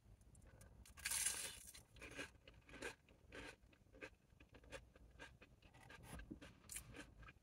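Close-up eating sounds: a bite into crispy battered fried cod gives a loud crunch about a second in, followed by chewing with softer crunches about twice a second.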